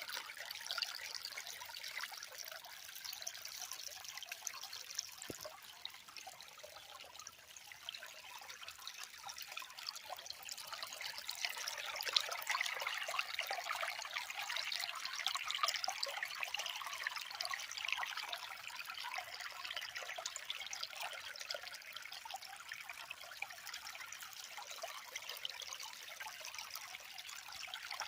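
A stream of water trickling steadily, a busy splashing hiss that swells a little toward the middle.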